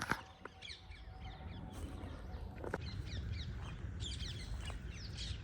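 Several birds chirping and calling, many short quick high calls overlapping throughout, over a steady low rumble. A couple of brief clicks are heard near the start and a little before the middle.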